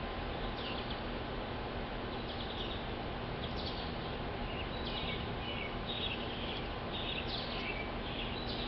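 Small birds chirping: short, high chirps, a few at first, then coming in quick succession through the second half, over a steady outdoor hiss.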